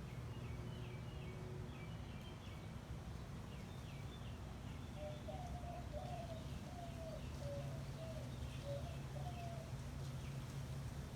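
Backyard birds chirping in short, high phrases, joined about halfway through by a lower bird call repeated about seven times, over a steady low background hum.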